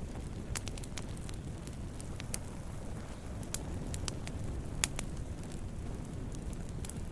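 Wood fire burning with a steady low rumble and irregular sharp crackles and pops, one louder pop a little under five seconds in.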